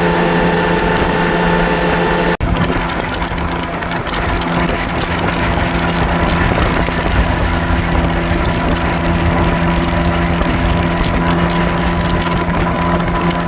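2013 Triumph Trophy SE's three-cylinder engine running at a steady speed while riding, with wind rushing over the microphone. The sound breaks off for an instant a little over two seconds in, then carries on the same.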